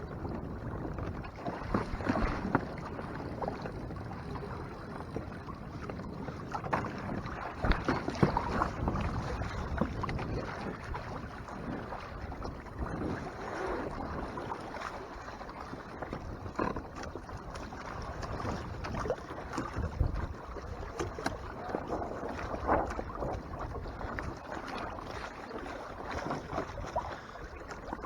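Water sloshing and lapping against the hull of a Hobie Tandem Island sailing kayak under way, with wind buffeting the microphone and irregular louder splashes now and then.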